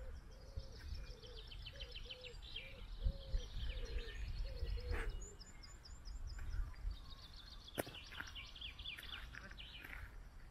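Birdsong: a songbird sings twice, each song a fast run of high notes falling in pitch over two to three seconds, the second near the end. In the first half a low call of short notes repeats about twice a second. A low rumble runs underneath, with a single sharp click partway through.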